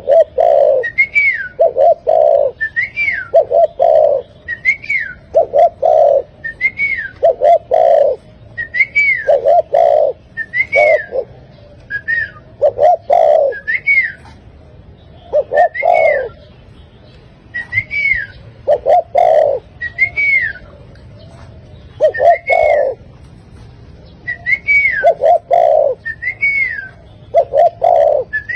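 A bird calling over and over, about every two seconds. Each call is a short cluster of low cooing notes with a higher whistled note that rises and then falls.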